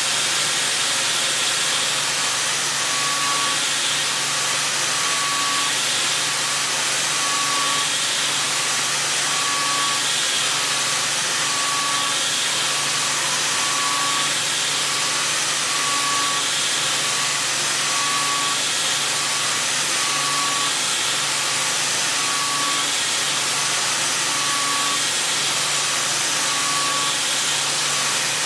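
Milling machine running: a steady hiss, with a short tone that repeats about every two seconds.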